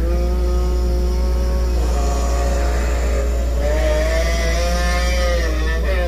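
A long, wavering moaning tone with several overtones, its pitch shifting slightly, lasting about six seconds over a steady low hum. It is an unexplained noise in the house, described as like inhumane moans.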